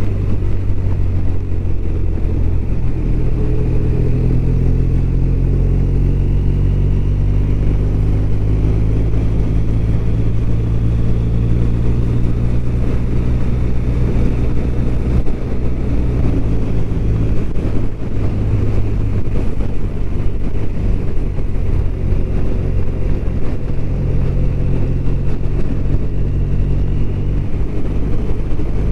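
BMW R1200RT's boxer-twin engine running steadily under way, its pitch drifting slightly up and down, with a steady rush of wind and road noise over it.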